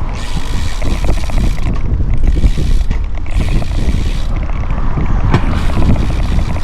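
Wind buffeting the microphone of a camera on a moving bicycle: a loud, steady rumble.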